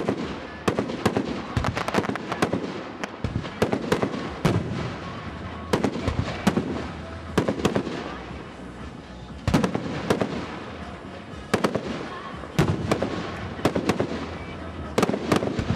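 Fireworks display: a rapid series of sharp shell bursts, one to three bangs a second, each trailing off in echo and crackle.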